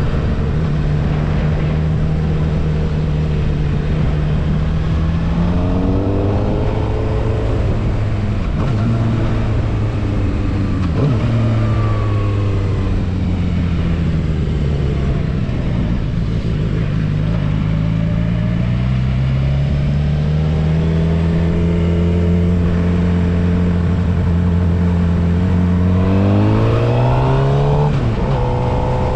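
Suzuki GSX-R750's inline-four engine under way: it holds a steady cruise, rises in pitch as it accelerates about six seconds in and again near the end, and eases off and falls in pitch in between.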